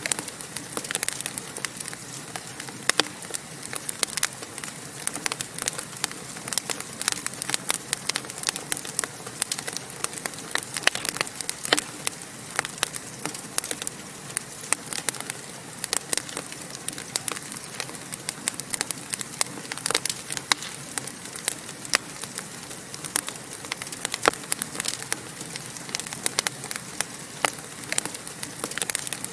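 Wood fire burning in a fireplace, with steady hissing and dense, irregular sharp crackles throughout.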